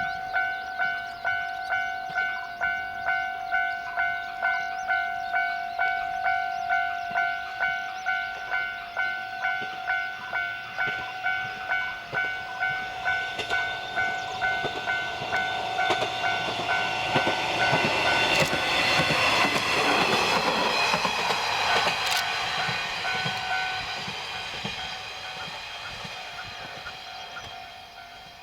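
Level crossing warning bell ringing about twice a second while a JR Shikoku KiHa 32 diesel railcar approaches, passes with rising wheel and engine noise around the middle, and fades away as the bell keeps ringing.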